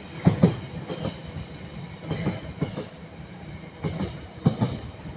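Freight train wagons rolling past, wheels knocking over rail joints in pairs of sharp clacks every second or two over a steady rumble.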